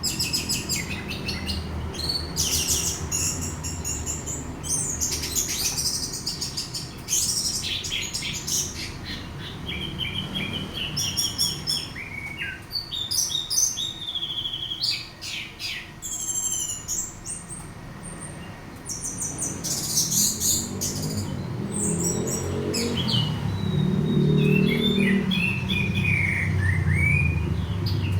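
Orange-headed thrush singing a long, varied song of rapid chirps, trills and whistled phrases with short pauses between them. This is the kind of recording kept birds are played to rouse them into full song. A low rumble runs underneath and grows stronger in the last several seconds.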